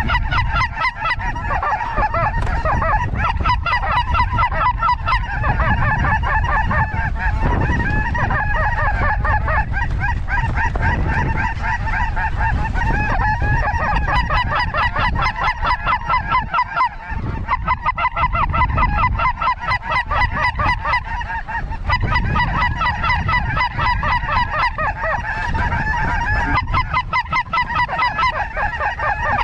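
A dense, continuous chorus of snow goose calls, many short high yelps overlapping without a break, over a steady rumble of wind on the microphone.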